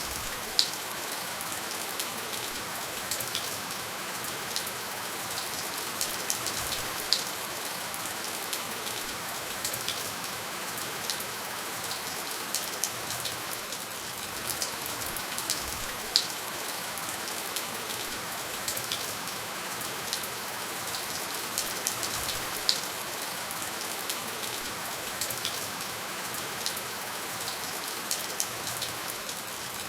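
Steady rainfall: an even hiss of rain with frequent sharp ticks of single drops landing close by, and no thunder.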